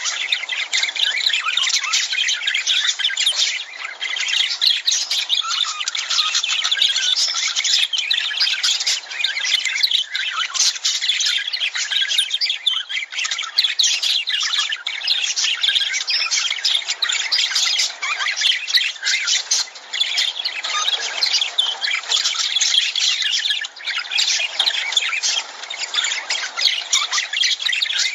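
Lovebirds chattering: a dense, unbroken stream of short, shrill, overlapping calls.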